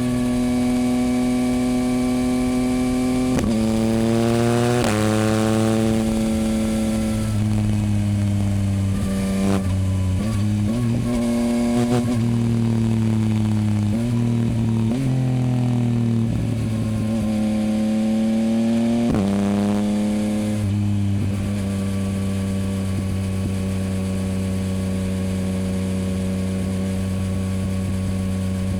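2024 Yamaha MT-09's 890 cc three-cylinder engine running through a Dominator HP8 aftermarket exhaust while riding. The engine pitch rises and falls several times, with sudden jumps, through roughly the first twenty seconds. After that it holds an even note at a steady cruise.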